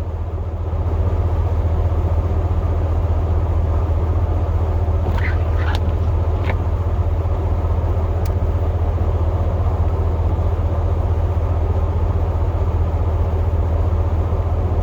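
Chevrolet Silverado plow truck running down the road: a steady low engine and road drone. A few brief high squeaks or clicks come about five to six and a half seconds in.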